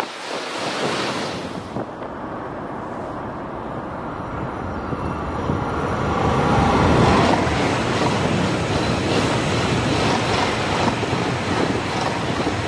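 A Eurostar high-speed train passing at speed with a rushing roar of wheels and air, loudest about seven seconds in. At the start, a Southeastern high-speed train is fading away. Wind buffets the microphone throughout.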